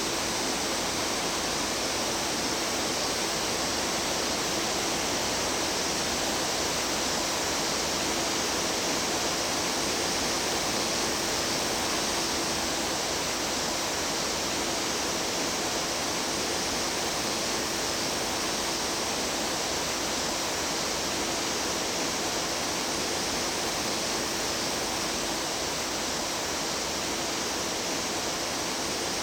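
Water of a mountain stream rushing steadily, an even, unbroken noise.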